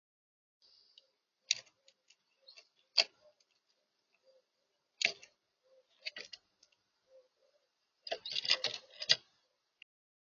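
Sharp clicks and taps at a bird feeder: single knocks every second or two, then a quick run of them about eight to nine seconds in.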